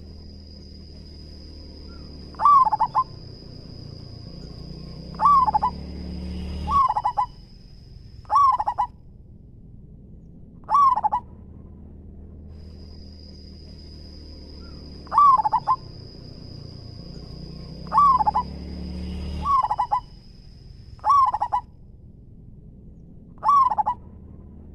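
Zebra dove (perkutut) cooing: about ten short bursts of quick, rippling coos, each under half a second, spaced a few seconds apart. A steady high-pitched whine runs under much of it and breaks off twice.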